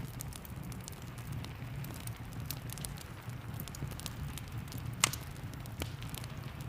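Wood fire crackling in a fireplace, with many small irregular crackles and one sharp, louder pop about five seconds in, over a steady low rumble and the hiss of rain.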